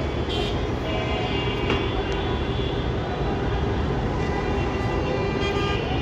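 Steady road traffic noise, with short high tones cutting in a few times.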